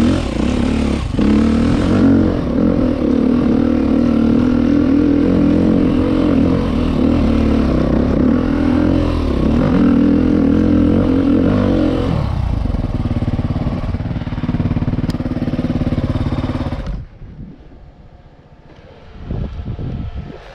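Husqvarna trail bike engine running steadily on the throttle. It eases about twelve seconds in, then drops sharply to a much quieter sound about seventeen seconds in.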